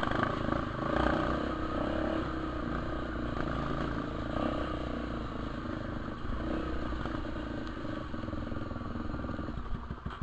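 Trail motorcycle engine running at fairly steady, moderate revs with small rises and falls. It drops away abruptly near the end.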